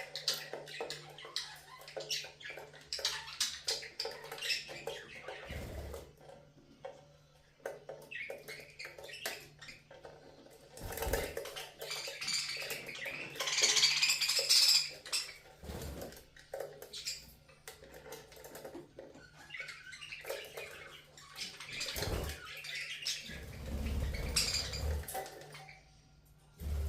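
Budgerigars chirping and chattering while bathing, with water splashing and light clicks, loudest in a noisy stretch near the middle.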